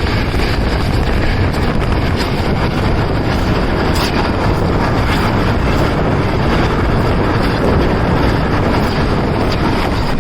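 Steady rush of wind on the microphone from a moving passenger train, with the train's running noise underneath.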